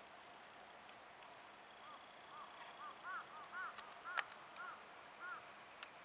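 A bird giving a series of about ten short, clear, arched call notes in quick succession, with a few sharp clicks among them.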